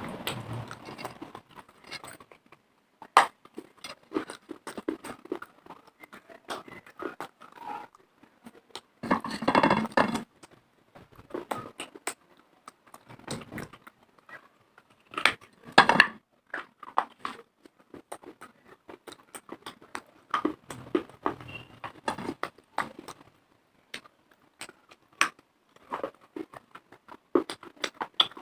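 Close-up biting and crunching chews of hard, dry clay pieces: irregular sharp crunches with short pauses, and a few louder bursts of crunching.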